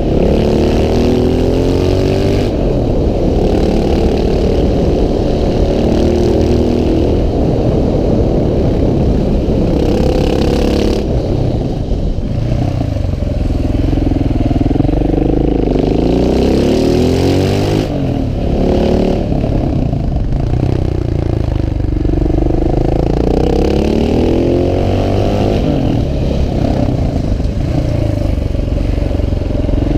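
KTM 690 SMC R's single-cylinder engine under riding load, its revs climbing and falling again and again as the bike is accelerated, shifted and slowed. The revs drop off briefly twice, about a third and two thirds of the way in.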